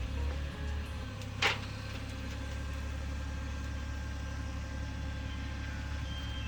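An engine idling with a steady low rumble, and one short sharp crack about one and a half seconds in.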